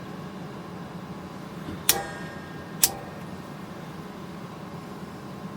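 Two sharp metallic clicks, a little under a second apart, each ringing briefly, over a steady low hum. The clicks come from hands at work on the propane hookup.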